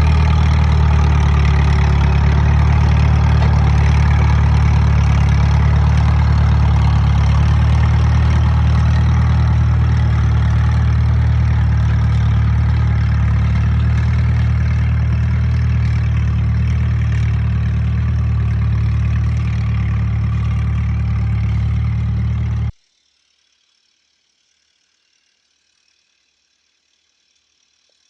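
1936 Case L tractor's four-cylinder engine running steadily, with a strong low hum. The sound cuts off abruptly near the end, followed by near silence.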